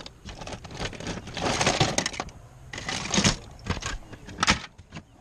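Small plastic toys and bags rustling and clattering in irregular bursts as they are handled and sorted, with a few sharp clicks near the end.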